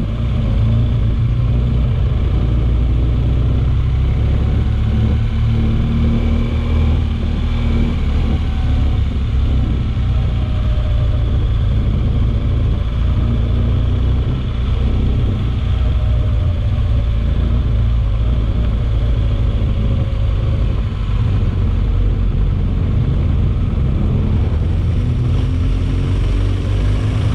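Steady low rumble of a moving vehicle, with faint engine tones drifting up and down in pitch.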